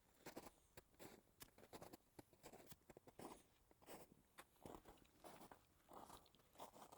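Faint footsteps crunching and rustling through forest-floor leaf litter at a walking pace, about one or two steps a second.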